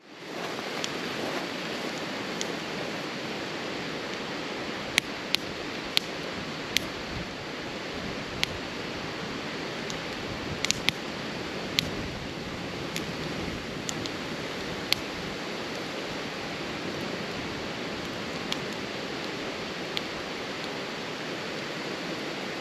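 Wood campfire burning, with sharp, irregular pops and crackles over a steady hiss.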